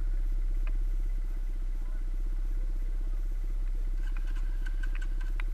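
Off-road motorcycle engine idling steadily with a rapid, even pulsing beat, with a few light ticks near the end.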